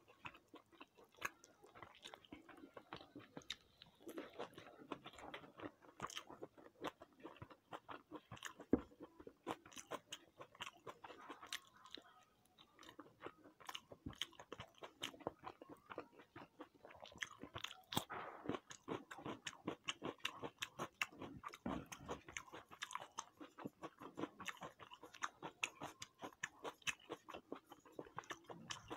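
A person chewing and crunching food close to the microphone, a dense run of small crunches and mouth clicks.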